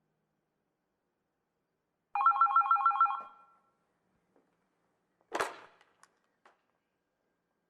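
A telephone ringing once in a rapid trill of about a second that fades out, with silence around it. About two seconds later comes a single short, sharp clack.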